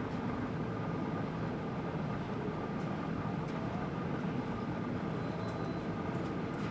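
Steady engine and vehicle rumble with a faint hum running through it.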